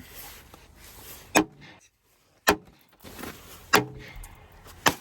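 Four hard blows, about a second apart, struck against a pickup truck's cab and window glass that will not break.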